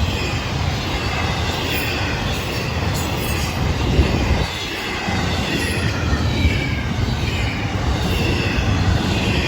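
Freight train cars rolling past: a steady rumble of wheels on rail, with thin squeals wavering up and down above it. The rumble dips briefly about halfway through.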